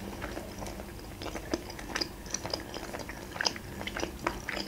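A person chewing soft boiled dumplings with the mouth closed, close to the microphone: irregular wet clicks and smacks, sparse at first and more frequent from about a second in.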